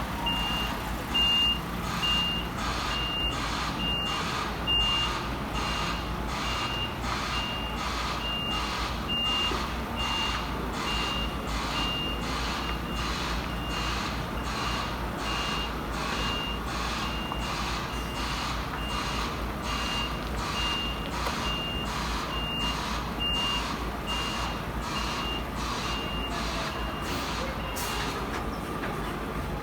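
Truck reversing alarm beeping steadily, a little over once a second, over the low running of the truck's engine. The beeping stops shortly before the end.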